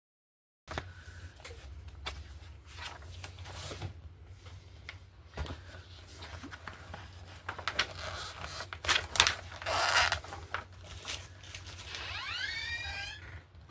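Scissors snipping through paper in short irregular cuts, with paper rustling as a small picture is fussy-cut out by hand, and a brief squeak near the end.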